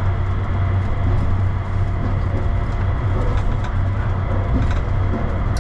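Automated airport people mover train heard from inside the car: a steady hum and rumble of the train, even throughout.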